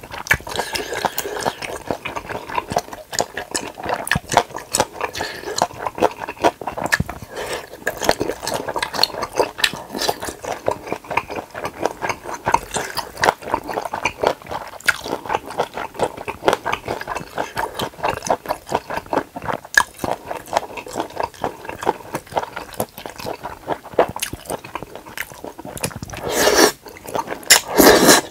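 Close-up mouth sounds of chewing spicy stir-fried pork intestines and wide noodles: a steady run of quick wet, squishy clicks. Near the end, a louder, longer slurp as a mouthful of noodles is drawn in.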